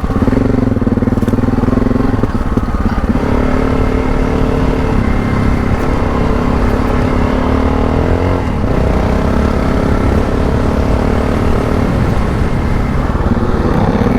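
Adventure motorcycle engine running under throttle on a dirt trail, its pitch shifting as the throttle opens and closes, with a brief rise and then a sharp drop in revs about eight and a half seconds in.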